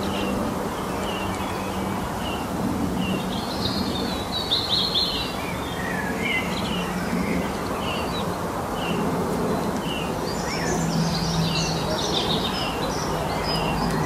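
Birdsong: a short chirp repeated at a steady pace, with two bursts of quicker, higher twittering, over a steady background hiss and a faint low hum.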